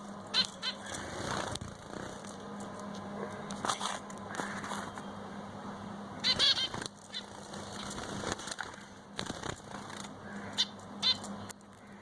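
Finches giving short high chirps, a few at a time, spaced irregularly with the loudest cluster about halfway through, over a faint steady low hum.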